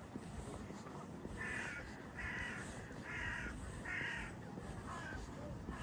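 A crow cawing four times in an even series, each caw about half a second long, over a steady low background hum.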